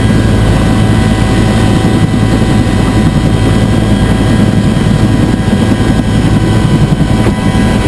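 UH-1 Huey helicopter running steadily: dense, loud engine and rotor noise with a constant whine on top.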